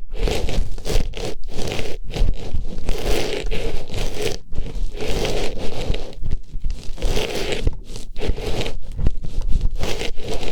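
Artificial flower pushed into and rubbed around a microphone's ear, making loud, close rustling and scraping in short strokes with brief pauses between them.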